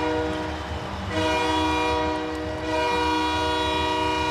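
Arena goal horn sounding in long, loud blasts, a chord of steady tones with two short breaks, celebrating a goal.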